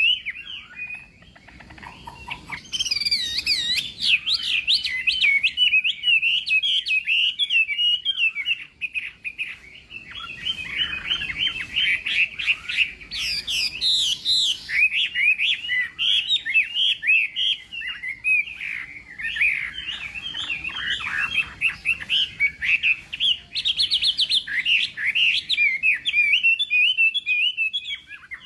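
Chinese hwamei (melodious laughing thrush) singing a long, rapid, varied song of quick sliding whistled notes, with brief pauses about a second in and near the middle.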